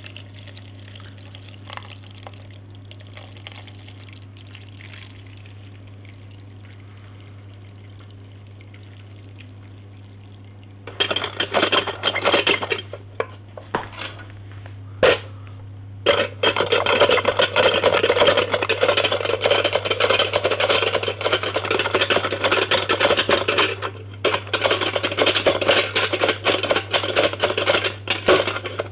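Vintage Boomaroo toy washing machine running, a loud mechanical rattling churn that starts about a third of the way in, stops and restarts a few times, and runs on with a brief break near the end.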